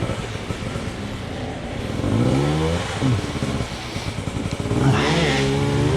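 Enduro dirt bike engine under way, revving up and down as the throttle is worked, with two strong surges about two seconds in and near the end.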